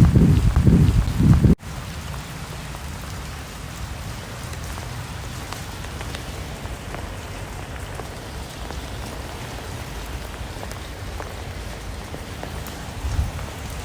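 Steady rain falling, an even hiss with scattered drops ticking. During the first second and a half a louder low rumbling sits over the rain, then cuts off suddenly.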